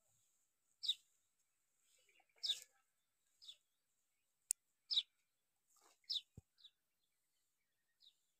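Faint bird chirps, short and high, about seven of them spaced a second or so apart, with a single sharp tick about four and a half seconds in.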